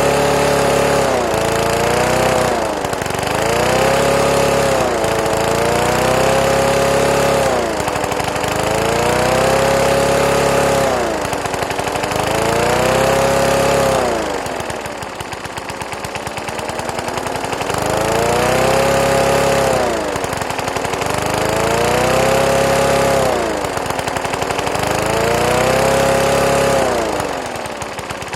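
3 hp Briggs & Stratton flathead lawn mower engine running and surging: its speed sags and picks back up about every three seconds, with one longer dip about halfway through.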